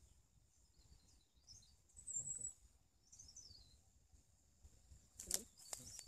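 Small birds chirping faintly in short, high twittering phrases, with one louder chirp about two seconds in, over a faint steady high tone. Near the end comes a short burst of sharp crackling rustles.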